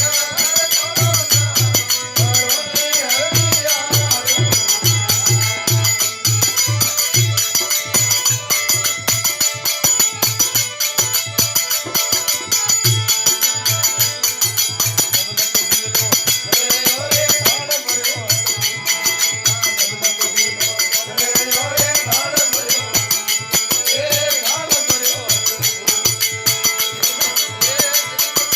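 Aarti devotional music with a fast, steady drum beat and continuous jingling percussion under a wandering melody line.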